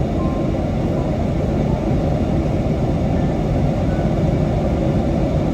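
Steady low rumble of a car heard from inside the cabin, engine idling.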